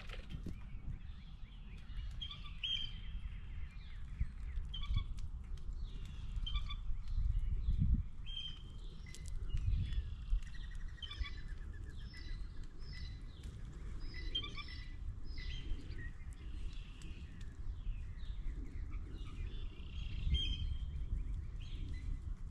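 Birds chirping in many short, repeated calls over a steady low rumble.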